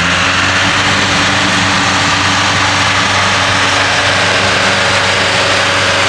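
A tractor engine running steadily at a constant speed, with no revving.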